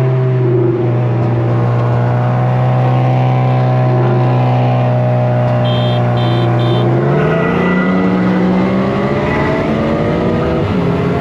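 A car engine held at steady revs. About seven seconds in, the revs drop, then rise gradually as the car accelerates, and drop again near the end, like gear changes. Three short high electronic beeps sound just before the first drop.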